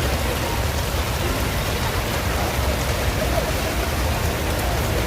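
Heavy downpour falling steadily in a city street, an even hiss of rain with a low rumble of traffic underneath.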